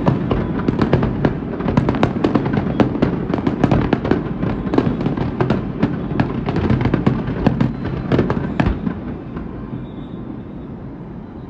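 Fireworks display: a dense barrage of rapid bangs and crackles that starts suddenly and thins out about nine seconds in.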